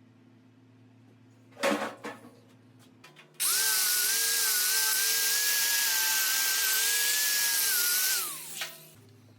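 A clatter about two seconds in, then a high-speed handheld grinder running at a steady high whine with a strong hiss for about five seconds before winding down, falling in pitch. It is blending weld repairs on a steel dirt bike frame.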